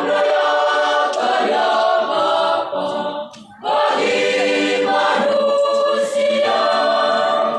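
Church youth choir singing, two sung phrases with a short break for breath about three and a half seconds in.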